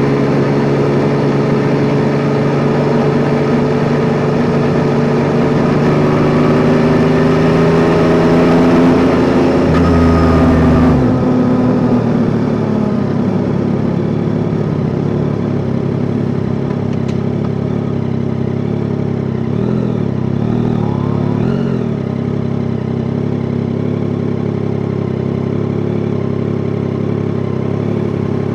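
Yamaha Tracer 9 GT's three-cylinder engine running under way with road noise. Its pitch climbs slightly over the first ten seconds, drops away about eleven seconds in, and then runs lower and steady.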